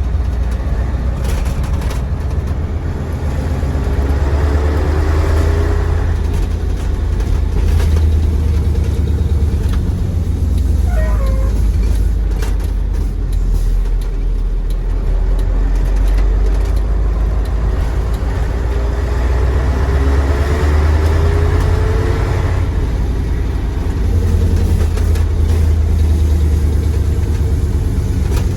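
Mercedes-Benz 1729 AK truck's 15-litre OM442 V8 diesel running under way, a deep steady rumble; the engine note rises twice as the truck accelerates, about four seconds in and again around twenty seconds in.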